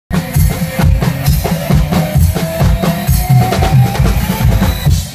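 Acoustic drum kit played to pop backing music, a steady beat of bass drum and snare hits over a recorded melody.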